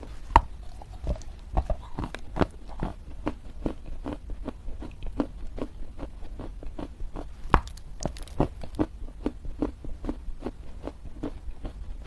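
Chinese loess, a dry clay-like earth, crunching as it is bitten and chewed: a quick, even run of soft crunches, about three or four a second, with louder bites about half a second in and again around the middle.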